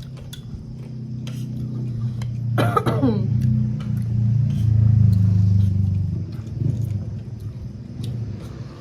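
Low engine rumble of a motor vehicle that swells to a peak about halfway through, then fades, as if passing close by. Small clicks come and go over it.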